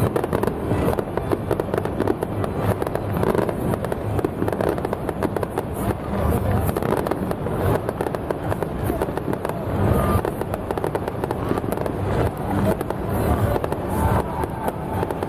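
Fireworks and firecrackers going off in a dense, unbroken crackle of many rapid small bangs.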